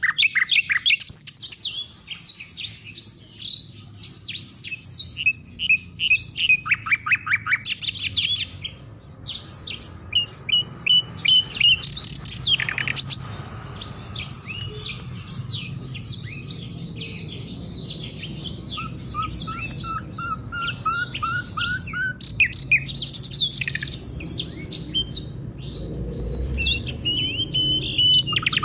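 A chorus of African songbirds singing with dense, rapid high chirps and trills that overlap almost without pause. About two-thirds of the way in, a series of short rising notes sounds lower in pitch.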